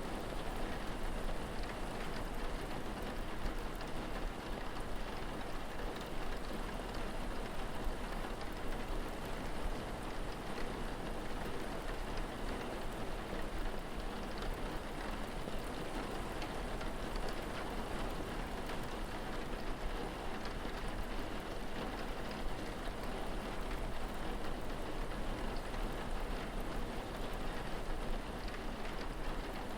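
Steady rain falling, a dense even patter with a low rumble underneath.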